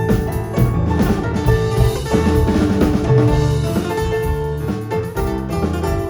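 A live band playing a song, with drum kit and guitar.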